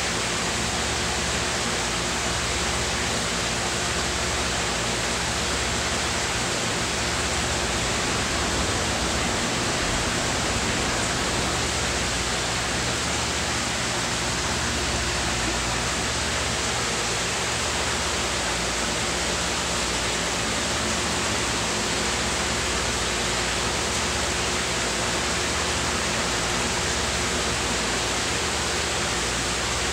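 Steady, even hiss that does not rise or fall, with a faint low hum under it.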